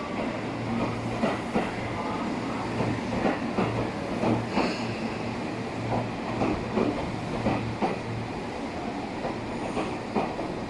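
Electric train moving through the station, its wheels clacking repeatedly over rail joints above a steady low hum.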